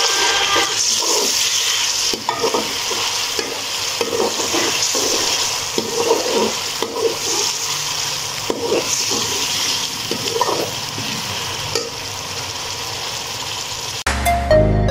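Chopped onions and ginger-garlic paste sizzling in hot oil in an aluminium wok, stirred with a steel slotted spoon that scrapes the pan again and again. Electronic music comes in suddenly near the end.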